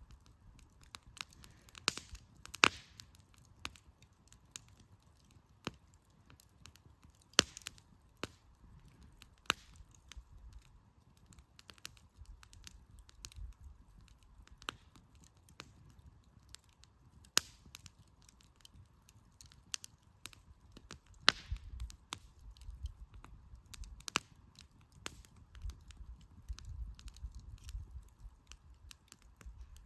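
Wood campfire crackling, with irregular sharp pops from the burning firewood, a few of them loud, over a low rumble that swells a little in the second half.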